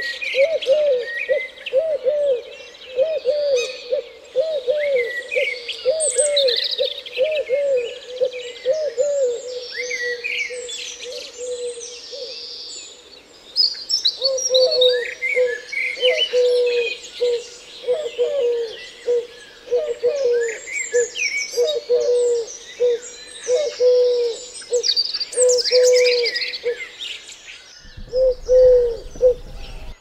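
Small birds chirping and twittering, over a low call repeated about twice a second that pauses briefly halfway through.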